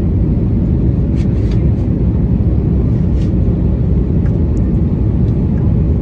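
Steady low rumble of engine and airflow noise inside an Airbus A320neo's cabin in flight, with a few faint clicks and taps.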